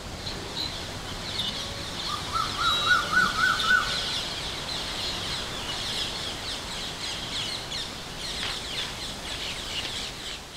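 Birds chirping and calling: many short high chirps throughout, with a quick run of repeated rising notes, the loudest part, from about two to four seconds in.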